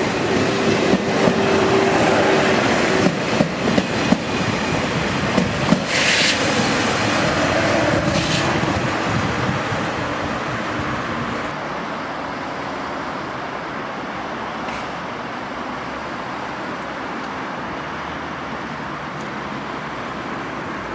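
A double-deck TGV Duplex trainset running past on the rails, its wheels clicking rapidly over the rail joints, with two brief high-pitched sounds about six and eight seconds in. The noise dies down after about ten seconds to a steady, quieter rumble.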